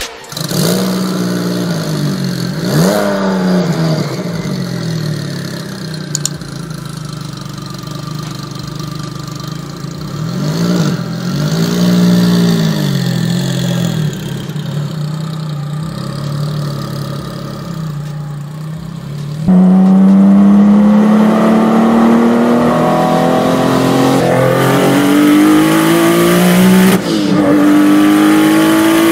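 A 9ff-tuned Porsche 911's flat-six engine is revved in separate blips while standing. About two-thirds of the way in it turns louder and accelerates hard, the pitch climbing steadily, then dropping at a gear change near the end before climbing again.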